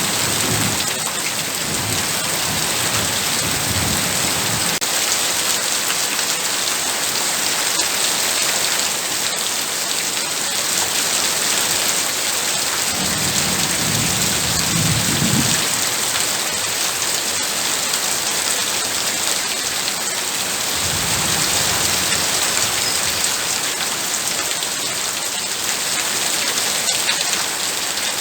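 Heavy rain pouring steadily, with low rolls of thunder rumbling under it three times: at the start, about halfway through, and briefly again later.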